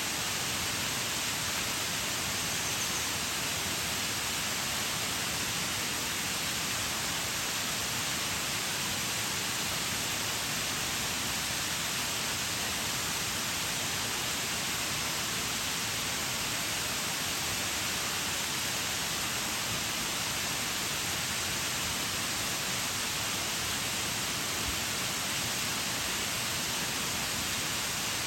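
Waterfall: a steady, unbroken rush of falling water, heaviest in the hissing upper range.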